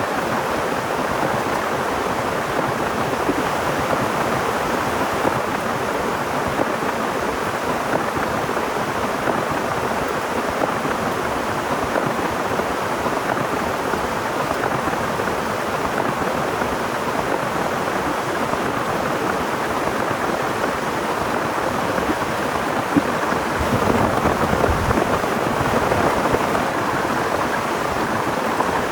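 Heavy rain falling steadily, an even dense hiss, with a brief louder swell about three-quarters of the way through.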